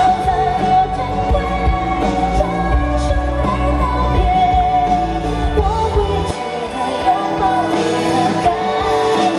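A woman singing over a live pop-rock band in a concert recording. About six seconds in, the bass and drums drop away, leaving the voice over lighter accompaniment, and the full band comes back near the end.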